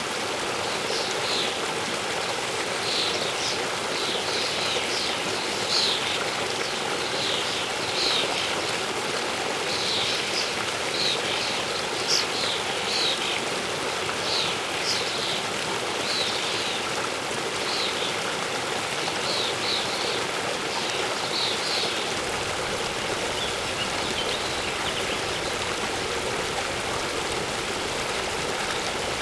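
Waterfall water rushing steadily, with a songbird giving short, high chirps every second or so through most of the stretch, fading out near the end.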